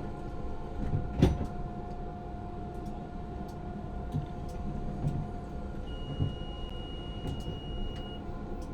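Tram heard from the driver's cab: a steady low rumble with a constant hum, a single knock about a second in, and a high steady tone from about six seconds to about eight seconds.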